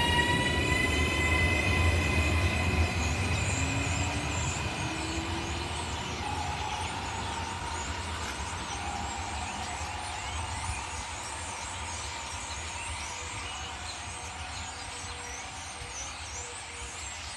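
Train running on the rails and fading away as it draws off, a steady rumble growing quieter. Over the first couple of seconds a high whining tone, rising slightly in pitch, sounds over it and dies away.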